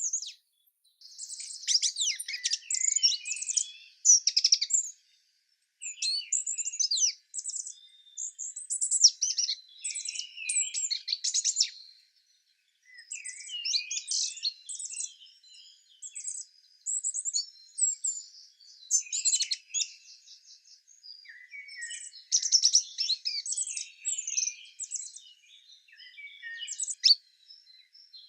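Songbird singing: rapid, high-pitched chirps and trills in phrases of a second or two, separated by short pauses.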